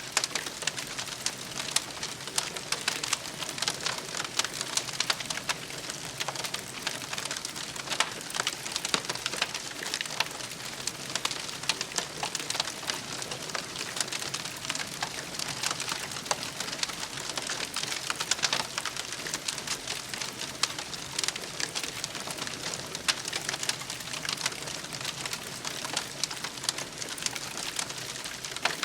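Campfire of burning wood, crackling steadily with frequent sharp pops and snaps.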